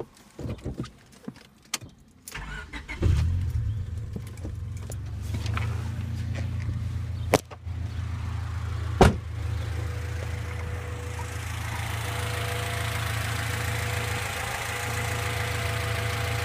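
Four-cylinder engine fitted with an aftermarket intake manifold, 66 mm throttle body, 4-2-1 headers and cold air intake, starting about three seconds in and then idling steadily. A few clicks come before it fires, two sharp knocks come during the idle, and a hiss grows in over the second half.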